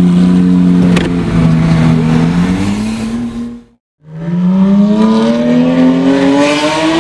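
Sports car engine running and building revs, its pitch climbing slowly. After a brief cut-out about four seconds in, a Porsche 911 GT3's flat-six accelerating away, its pitch rising steadily.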